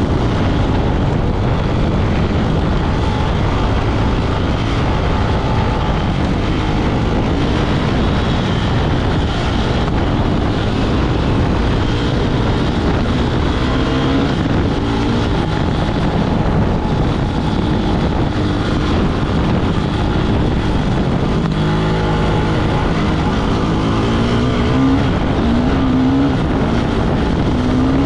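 Off-road motorcycle engine running hard under load, its pitch rising and falling with the throttle, most clearly in the second half, over a heavy continuous rumble.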